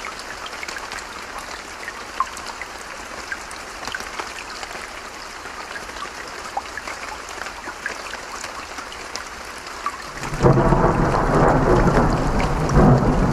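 Running water with scattered drips, then about ten seconds in thunder breaks into a loud, deep rolling rumble that keeps going over the water.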